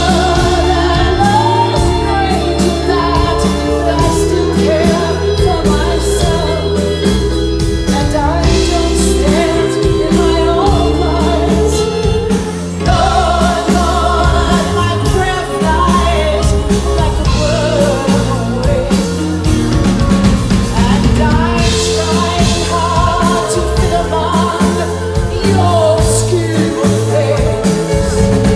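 Live band playing a slow rock song with singing over it, loud and continuous.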